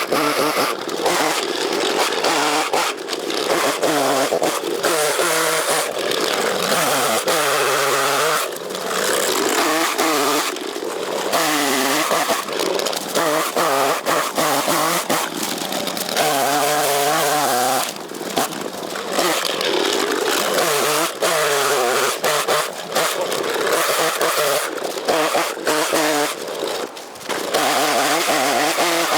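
Chainsaw cutting, its engine revving up and easing off again and again as it works through the wood, with short drops to a lower speed between cuts.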